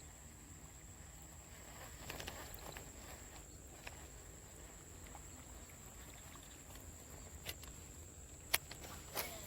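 Steady high-pitched insect drone, with brief rustling about two seconds in and a few sharp clicks near the end.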